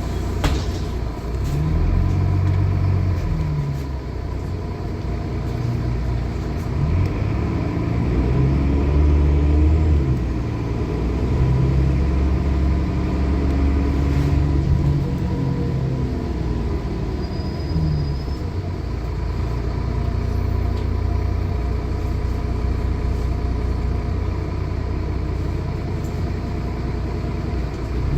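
Turbocharged diesel engine of a city bus pulling hard, its pitch rising and dropping back several times as it works through the gears, with a steady turbocharger whistle above the engine.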